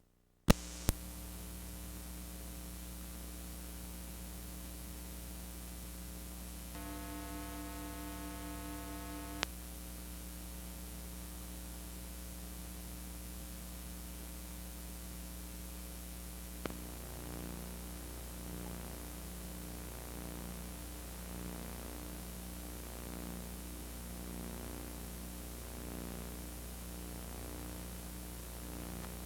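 Steady static hiss with an electrical mains hum from VHS tape playback, cutting in with a sharp click. A few seconds in a steady pitched tone sounds and ends with a click; after another click just past halfway the hum pulses in a regular rhythm.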